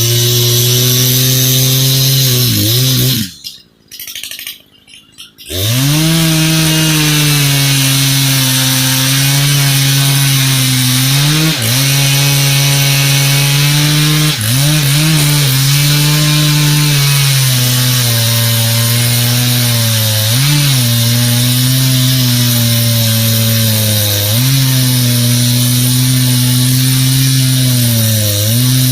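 Muffler-modded Echo CS-590 two-stroke chainsaw, new and being broken in, running at high revs while cutting logs, its pitch dipping briefly several times. About three seconds in the sound drops away for about two seconds before the saw is running again.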